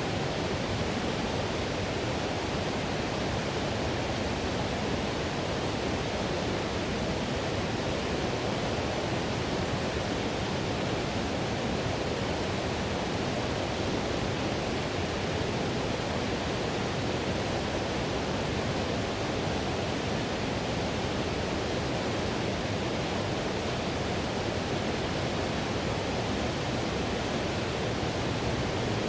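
Whitewater river rushing steadily: an even, unbroken wash of water noise.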